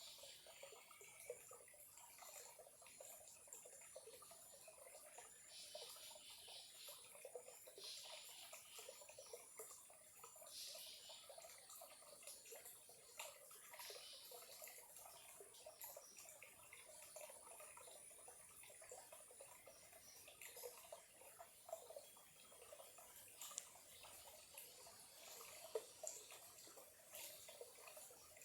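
Faint trickling and gurgling of a small stream, with scattered little drips and splashes.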